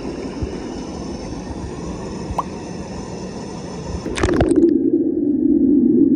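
Hot spring pool water sloshing and gurgling. About four seconds in there is a splash, then the sound turns loud and muffled, with a low rumble and the higher sounds gone, as heard from under the water through a phone's waterproof case.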